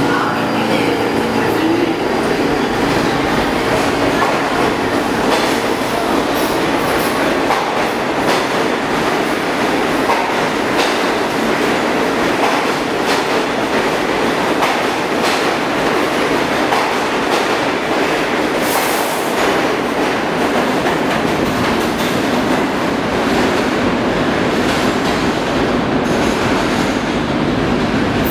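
R46 subway train departing an underground station: a loud, steady rumble of the cars running out, with rhythmic clicks of the wheels over rail joints.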